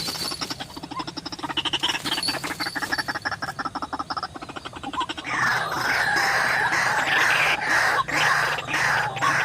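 White-breasted waterhen calls: a fast run of pulsing, croaking notes, then from about five seconds in a louder, harsher squawking.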